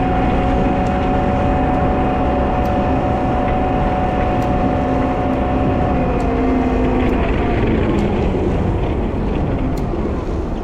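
Wheel loader's diesel engine and drivetrain running under load while snow plowing, a steady whine over a deep rumble. The pitch drops about six seconds in as the revs fall.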